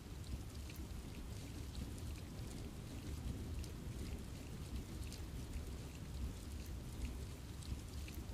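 Steady rain falling on a forest, with a low rumble under it and many scattered drops tapping close by.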